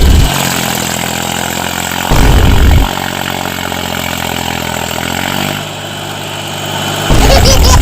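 Small engine of a homemade mini tractor running, its pitch sagging briefly about five seconds in and then picking up again. Three short, loud low rumbling bursts cut in: at the start, about two seconds in and near the end.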